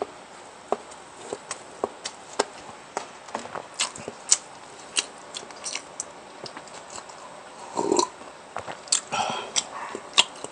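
Close-miked mukbang eating: irregular chewing, biting and wet mouth clicks, with two longer, louder stretches about eight and nine seconds in.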